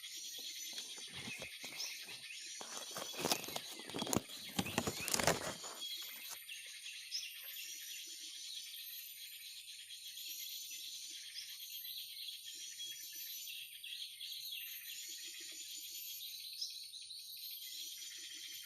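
Many small birds chirping and twittering without a break, over a steady high insect drone. Loud rustling and knocking sounds come between about one and six seconds in, and short low frog croaks repeat every second or two after that.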